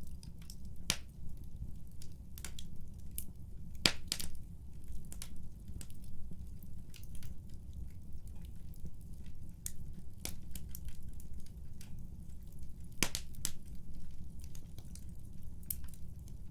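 Wood fire burning in a fireplace: a steady low rumble of flames with irregular sharp crackles and pops, the loudest a few seconds apart.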